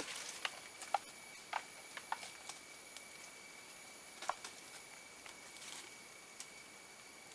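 Scattered sharp taps and knocks, about a dozen at irregular intervals, some with a short hollow ring, over a steady high-pitched whine.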